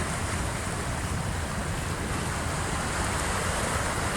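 Sea waves of the incoming tide washing in as a steady surf noise, mixed with wind rumbling on the microphone.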